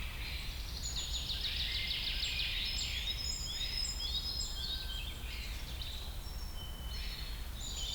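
Small birds singing: rapid repeated trills and short high whistles, over a steady low rumble.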